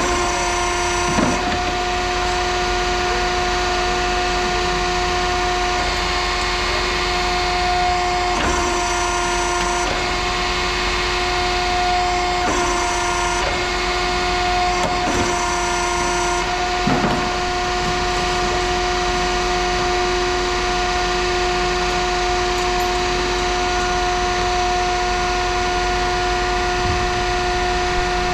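A machine running steadily with a constant pitched hum, with a few short knocks or clanks over it.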